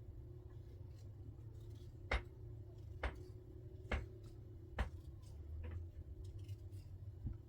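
A series of sharp knocks, about one a second for four strokes, then two fainter ones, over a steady low hum.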